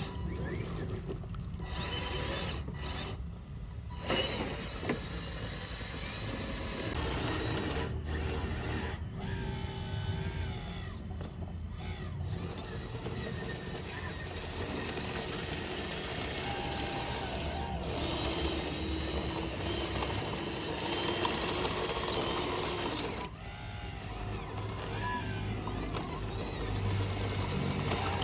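Electric motors and hydraulic pumps of radio-controlled construction machines whirring as they work, with whines that shift in pitch under changing load and a few sharp clicks.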